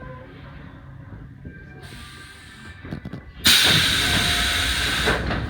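Low rumble of an electric commuter train, then about three and a half seconds in a sudden loud hiss of compressed air from the train's air system, lasting under two seconds.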